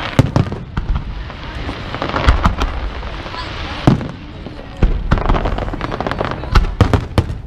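Aerial fireworks shells bursting in quick succession: many sharp bangs close together, with a crackling hiss between them.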